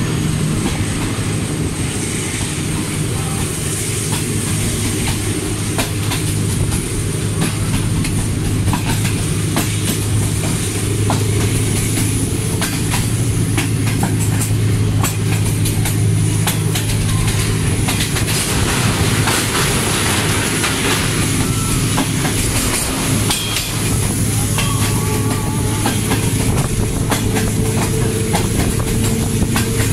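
Passenger train running along the track, heard from an open coach doorway: a steady low drone with the clickety-clack of wheels over rail joints throughout.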